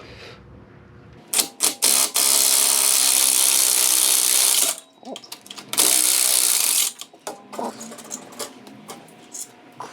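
A handheld power tool runs in bursts, taking off the nuts that hold the exhaust's high-flow cat to the turbo. A few short blips come first, then one run of about two and a half seconds and a shorter run of about a second, with light metallic clicking between.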